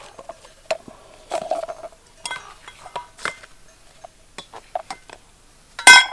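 Metal camp cookware and utensils being handled: scattered light clinks and knocks, some ringing briefly, then one loud ringing clank near the end.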